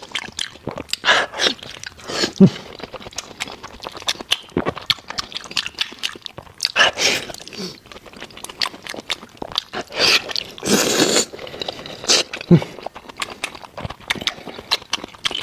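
Close-miked chewing and biting of meat: irregular wet smacking clicks and crunching bites in quick succession. About two-thirds of the way through there is a louder, longer noisy sound lasting about a second.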